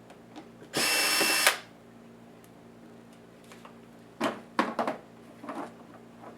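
A small electric screwdriver motor whines for under a second, driving a laptop case screw. A few seconds later come several light clicks and knocks of screws and plastic parts being handled.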